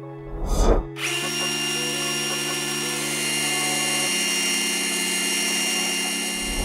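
Hilti TE 30-22 cordless rotary hammer running steadily under load for about five seconds, over background music. A swelling whoosh comes just before it starts, and another comes as it stops.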